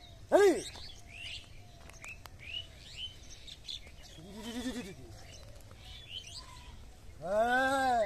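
Small birds chirping and tweeting throughout, with three louder drawn-out calls rising and falling in pitch: a short one about half a second in, one about four and a half seconds in, and a longer one near the end.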